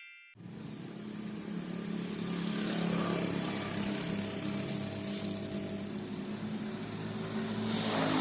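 An engine running steadily, coming in a moment after the start and growing a little louder over the first few seconds.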